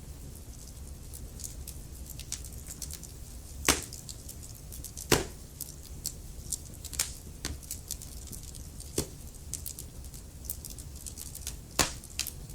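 Wood fire crackling in a fireplace: a constant scatter of small ticks and snaps, with a few louder pops, over a low steady rumble.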